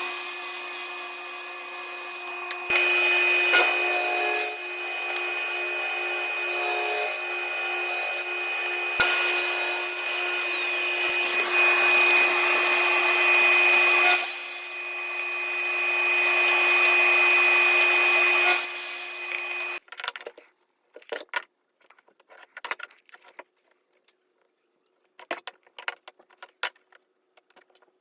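Electric woodworking power tool running and cutting into scrap hardwood for about twenty seconds, its motor whine steady while the noise swells and dips as the wood is fed. It then stops suddenly, followed by scattered light knocks and clicks of wood pieces being handled.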